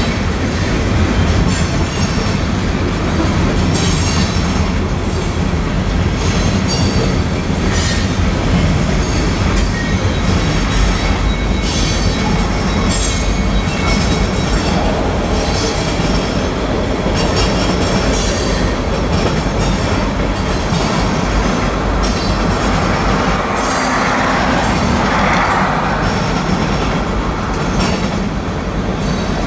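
Freight cars (tank cars and covered hoppers) of a manifest freight train rolling past close by: a loud, steady rumble of steel wheels on rail with irregular clicks at the rail joints. Now and then there are brief high wheel squeals.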